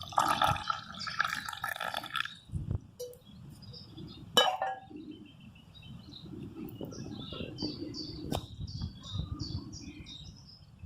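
Liquid trickling in the first two seconds, a sharp click about four seconds in, then a bird singing a run of short repeated high notes, about three a second, over a low rumble.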